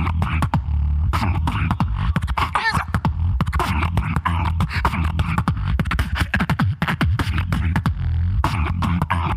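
Solo beatboxer performing into a microphone: rapid, dense percussive clicks and snare-like hits over a continuous deep bass hum, with a brief wavering pitched sound about two and a half seconds in.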